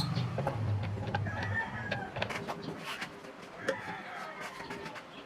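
A bird calling twice in the background, each call drawn out and falling in pitch, among scattered light clicks and knocks. A low hum fades out in the first second and a half.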